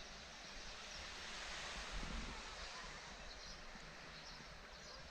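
Faint, steady outdoor background noise: an even hiss with a brief low thump about two seconds in.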